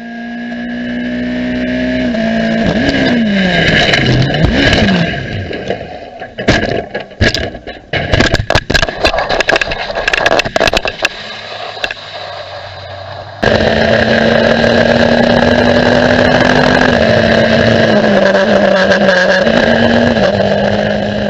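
Open-wheel race car engines at high revs, the pitch falling sharply as cars pass, then a rapid series of crash impacts and crackling debris noise for several seconds. After an abrupt cut about thirteen seconds in, a steady high-revving engine note runs on and steps down in pitch near the end.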